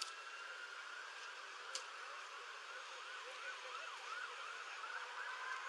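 Emergency vehicle siren some way off, holding a steady wail and then switching, about a second and a half in, to a fast yelp that sweeps up and down about three times a second. Two brief sharp clicks are heard over it.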